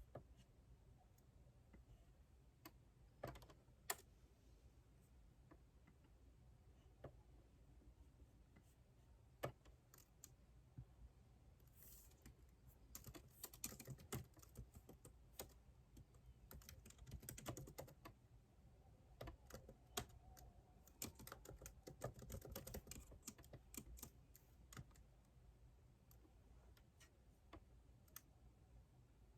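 Computer keyboard being typed on. There are a few scattered keystrokes at first, then quicker runs of typing through the middle, which thin out again near the end. It is faint overall.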